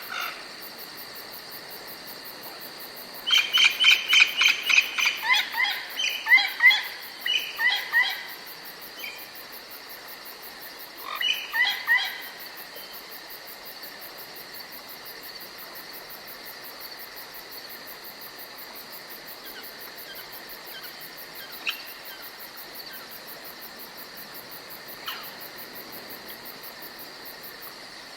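Insects chirring steadily in forest ambience. A songbird sings a rapid series of clear notes, about four a second, from about three seconds in to eight seconds. It sings a shorter phrase again around eleven seconds.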